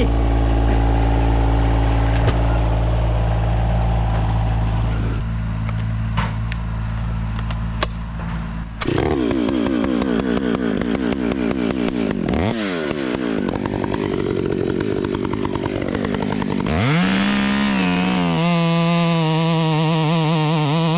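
An engine runs steadily at low revs. About nine seconds in, a chainsaw takes over, revving up and down, and near the end it holds a steady high-pitched run.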